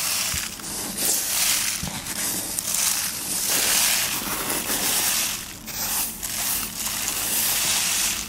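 Dry corn husks rustling and crackling as they are handled and scooped by hand, in continuous swells of crinkling.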